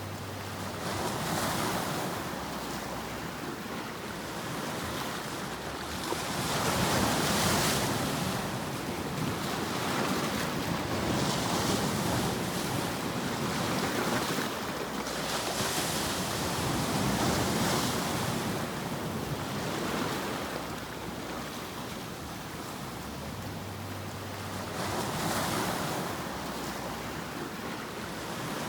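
Ocean surf: waves washing in and drawing back in a steady hiss that swells and fades every four to nine seconds.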